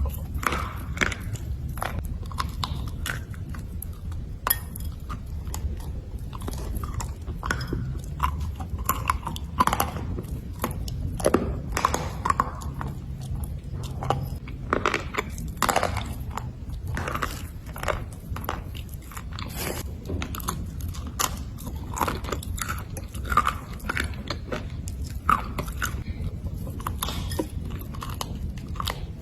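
A person biting and chewing pieces of black slate: many irregular crisp crunches and clicks throughout.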